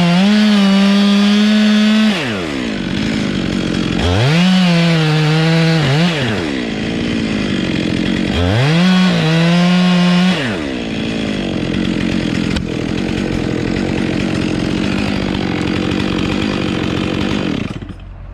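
Two-stroke chainsaw engine run at full throttle, dropping back to idle about two seconds in, then revved up twice more and settling to idle each time. It goes quiet shortly before the end.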